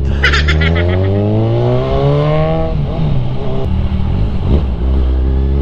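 Kawasaki Z1000R inline-four engine revving: its note climbs steadily in pitch for nearly three seconds, then the throttle closes and it falls back to a low, steady idle.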